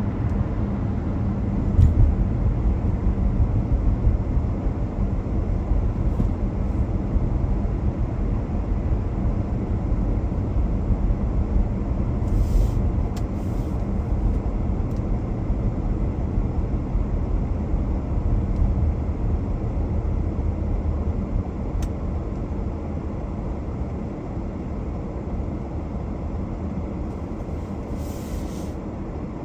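Car driving along the road, with a steady low rumble of tyres and engine. There is a single knock about two seconds in and a few short hissy sounds near the middle and near the end. The rumble grows quieter toward the end.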